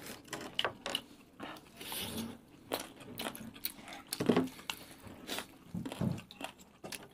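Several people chewing and biting into fried chicken lollipops close to the microphone, with moist mouth smacks and many small scattered clicks. A short low murmur from one of the eaters about four seconds in is the loudest moment.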